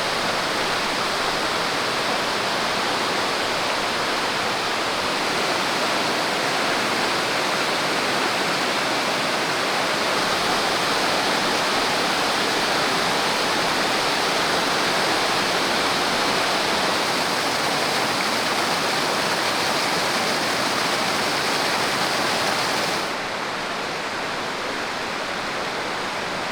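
Waterfall pouring over a rock slab on a stream: a steady rushing of water. Near the end it turns a little quieter and duller.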